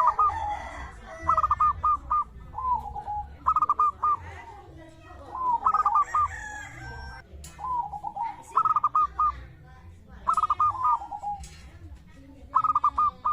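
Zebra dove singing: repeated phrases of quick, staccato coos, each a rapid run of notes that drops to a few lower trailing coos, coming every one to two seconds.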